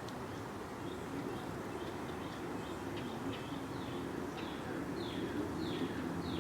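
A songbird calling: a series of short, downward-slurred whistled notes that start faint and sparse, then come about two a second and grow louder near the end, over a steady low outdoor rumble.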